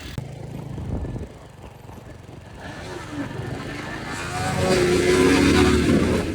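Motorcycle engine running, with the note building from about halfway through to a loud, high-revving peak near the end before dropping off.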